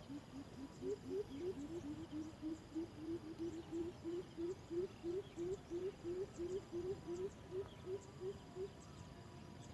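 Greater coucal calling: a long, even series of deep hoots, about three to four a second, each note sliding slightly upward, stopping shortly before the end. About a second in, a second bird's series overlaps for a couple of seconds. Faint high chirps of small birds sound behind it.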